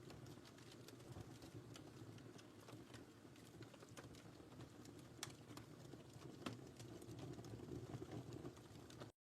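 Faint wood fire crackling in a fireplace: a soft, steady rumble of flames with irregular sharp pops and crackles, a couple of louder pops about five and six and a half seconds in.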